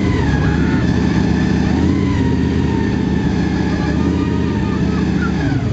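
Big-block Ford V8 in a 1949 Studebaker pickup, running steadily just after starting, with a deep, even exhaust note.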